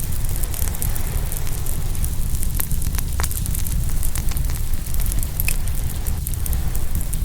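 Open wood fire crackling, with many scattered sharp pops, over the steady low rush of ocean waves.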